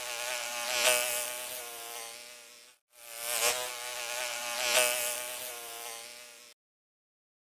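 A flying insect buzzing steadily, growing louder and fading twice in each pass as if flying close by. The same buzz recording plays twice, back to back.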